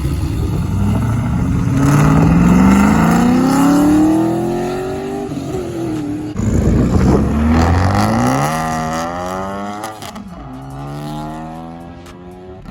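Five-cylinder car engine accelerating hard away. Its note climbs steadily, falls back at an upshift about six seconds in, climbs again, and shifts once more near the ten-second mark before fading.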